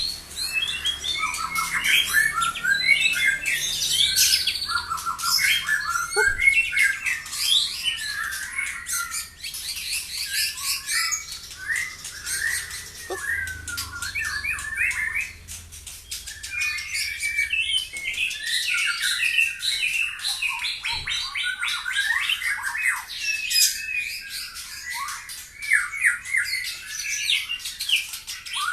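White-rumped shama (murai batu) singing a long, fast, varied song of chattering trills, rapid repeated notes and whistled glides, packed with mimicked phrases (isian), with only brief pauses.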